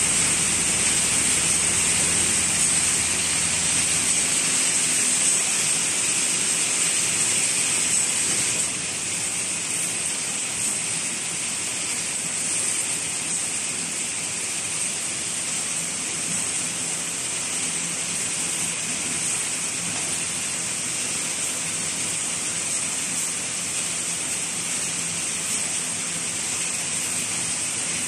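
Automatic wire mesh welding machine running, a steady hissing industrial noise without distinct separate strokes. A low hum underneath stops about four seconds in, and the overall level drops a little about eight seconds in.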